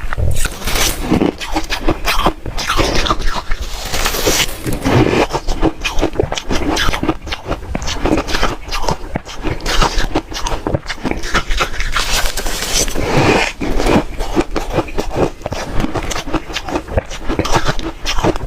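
Close-up chewing of hard, refrozen ice: a steady run of sharp, crackly crunches as the ice is bitten and broken between the teeth.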